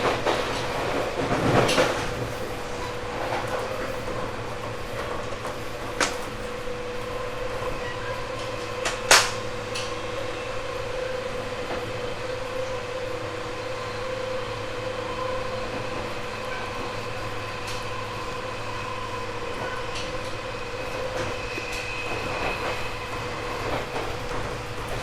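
Running sound inside a 1978 JR 189 series motor car: the MT54 traction motors and gears give a steady hum at an even pitch over the rumble of the wheels on the rails. A few sharp clicks from the track cut through it, the loudest about nine seconds in.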